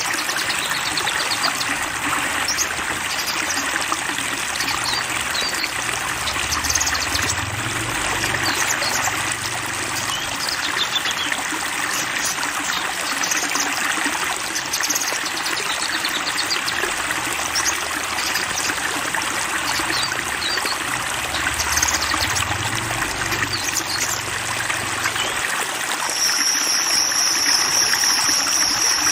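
Steady sound of flowing water, with short, high bird chirps scattered over it. Near the end a steady, high-pitched continuous trill comes in.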